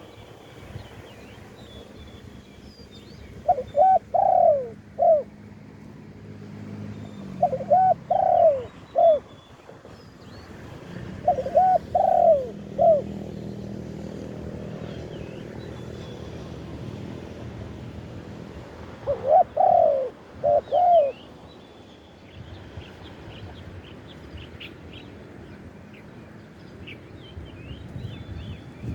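Spotted dove cooing: four phrases of about three notes each, a few seconds apart, with a longer gap before the last. Small birds chirp faintly in the background.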